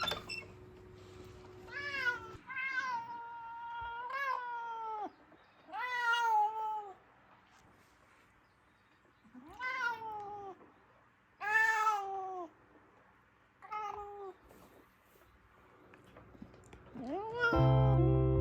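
A domestic cat meowing repeatedly, about seven calls with short pauses between them. Several calls are long and each drops in pitch at the end. Soft guitar music starts near the end.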